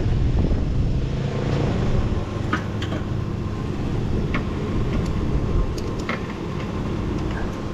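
Motor vehicle engine idling steadily under a low rumble, with a few light clicks.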